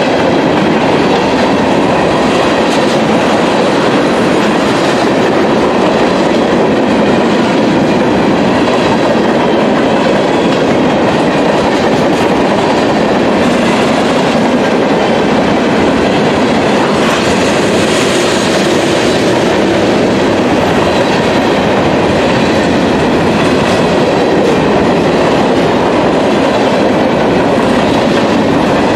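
Freight train's covered hoppers and tank cars rolling past close by: a steady, loud rolling noise of steel wheels on rail that goes on without a break.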